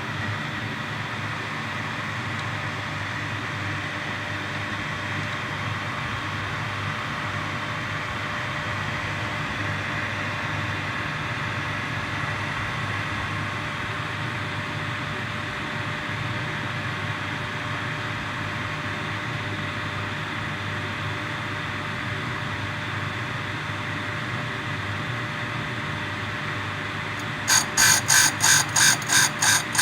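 RV-3000 valve grinding machine running steadily with its motors and grinding wheel turning. Near the end a fast rhythmic pulsing of about three to four beats a second starts up over the running machine.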